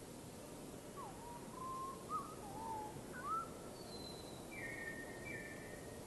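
A bird singing: a few clear whistled notes that slide up and down, followed by higher, flatter notes near the end, over a steady background hiss.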